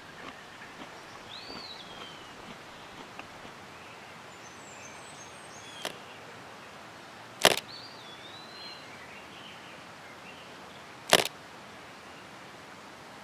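Faint bird chirps over a quiet outdoor background, broken by two sharp, loud cracks about four seconds apart, with a softer click shortly before the first.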